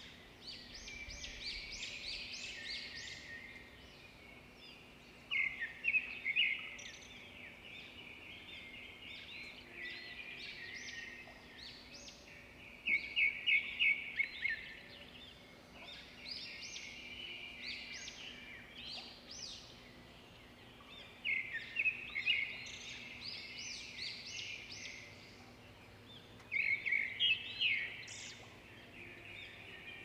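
Small birds chirping and twittering, with louder bursts of rapid repeated chirps every several seconds.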